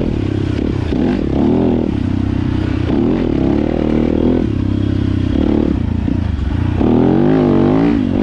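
Four-stroke dirt bike engine under load on a trail, its pitch rising and falling as the throttle is worked, with a clattering rattle from the bike. It revs up hardest near the end.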